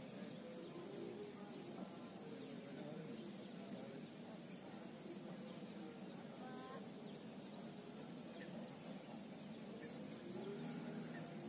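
Faint lakeside ambience with birds calling: a short, high chirping run repeats every three seconds or so, and a brief series of lower notes comes about six or seven seconds in.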